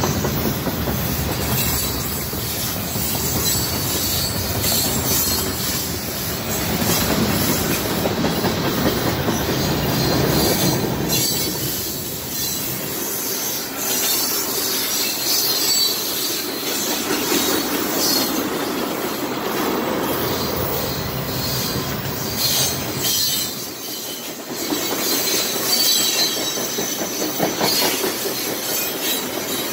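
Union Pacific freight train's cars, tank cars and lumber flatcars, rolling past close by: a steady rumble with the clatter of steel wheels over the rails.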